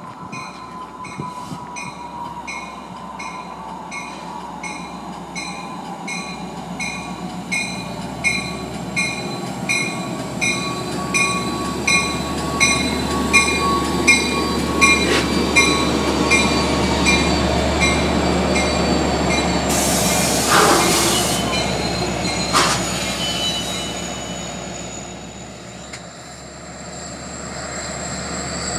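Long Island Rail Road DM30AC diesel locomotive hauling bilevel coaches, approaching and passing at speed with its bell ringing in a steady beat of about three strikes every two seconds that grows louder as it nears. The rumble and wheel noise swell to a peak about two-thirds of the way through, with a brief hiss, then ease as the train goes by.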